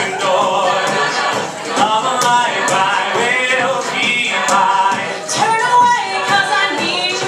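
A cappella vocal group singing in harmony over a steady beat of sharp clicks.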